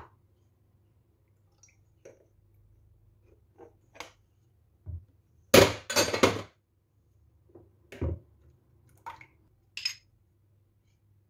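Dishes and kitchenware being handled: scattered knocks and clinks, the busiest and loudest run about five and a half to six and a half seconds in, over a faint steady hum.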